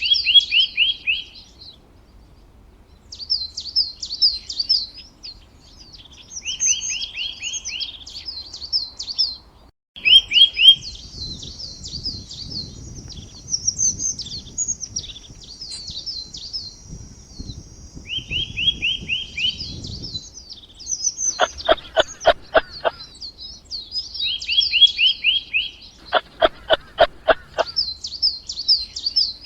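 Small birds chirping and singing in short high phrases that repeat over and over, with two rapid trills of quick, evenly spaced notes in the second half.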